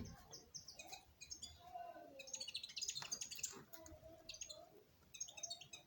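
Bird chirping in quick clusters of short, high twittering notes, with a few lower wavering calls in between.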